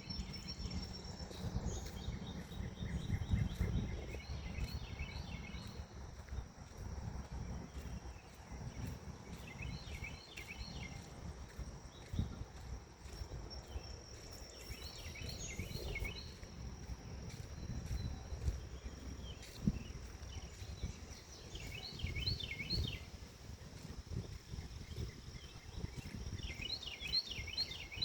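Forest ambience after rain: a steady high insect trill throughout, and a bird repeating a short phrase of rapid chirps every five or six seconds. Beneath them is a low rumble of wind.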